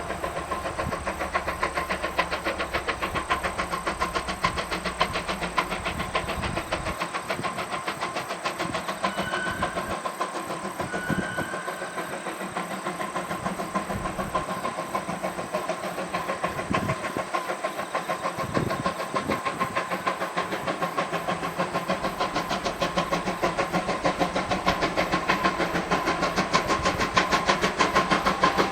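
Steam locomotive working on the Moka Railway, its exhaust beats coming as a fast, even rhythm that grows louder toward the end as the train approaches.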